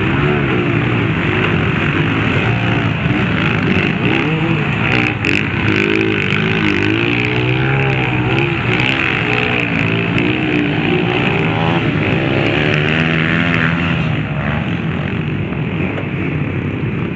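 Off-road motorcycle engines revving, their pitch rising and falling over and over.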